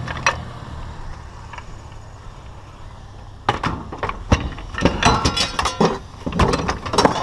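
A vehicle engine idling with a low steady hum. About three and a half seconds in, hard scrap pieces start clinking and clattering in quick clusters as loose debris is picked up and tossed.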